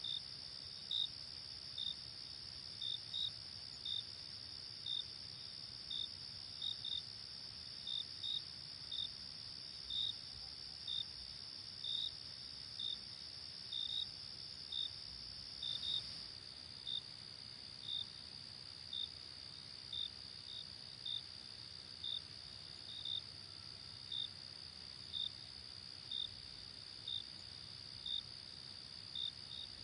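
Night insect chorus: a steady high trill with crickets chirping over it about once a second, sometimes in quick pairs. About halfway through, the steady trill drops slightly in pitch and level.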